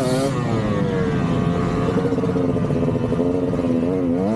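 KTM 200 single-cylinder two-stroke dirt bike engine under throttle on a woods trail. The revs waver quickly at first, drop about a second in, hold fairly steady, then pick up and waver again near the end.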